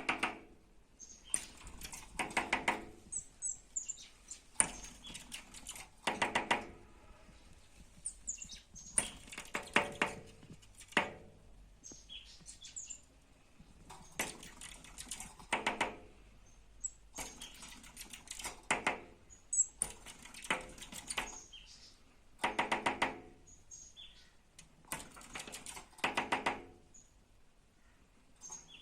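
A small bird making bursts of rapid tapping, about ten bursts each under a second long and coming every two to three seconds, with short high chirps in between.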